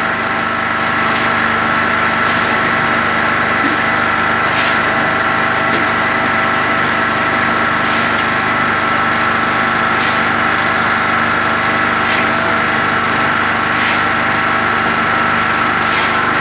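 Skif BSM 200 concrete mixer running loaded with concrete mix. Its drum turns with a steady mechanical hum from the 550 W electric motor and gear drive, and faint clicks come every second or two.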